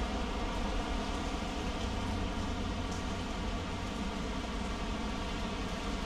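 Heavy spring rain falling and splashing onto wet paving and standing water, a steady hiss with a low, steady rumble underneath.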